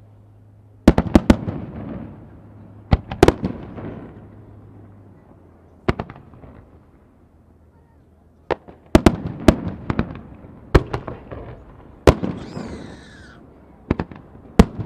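Aerial fireworks bursting: sharp bangs, each trailing off in a rumbling echo, coming in clusters. There are several about a second in, more around 3 s, a lull, then a quick run of bangs from about 9 to 10 s and scattered bangs to the end.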